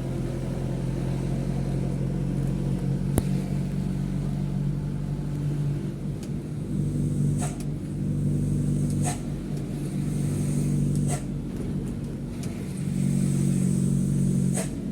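Mitsubishi Fuso truck's diesel engine running under way, heard from inside the cab, its drone swelling and easing several times as the throttle opens and closes. A sharp click comes about three seconds in, and a few short knocks or rattles follow later.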